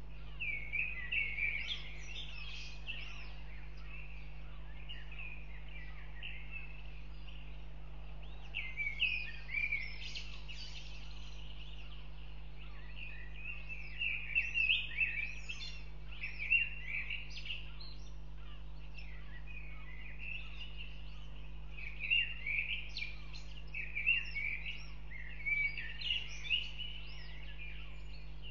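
High, thin bird chirps in short bursts of a second or two, coming every few seconds, over a steady low electrical hum.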